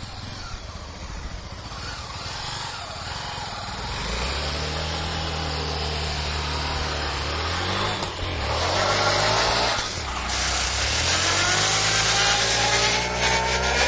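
Honda Tornado motorcycle's single-cylinder engine revving hard in fourth gear while the rear tyre spins in a burnout, with the hiss of the tyre on the ground. The revs climb past the middle, dip briefly, then climb again near the end.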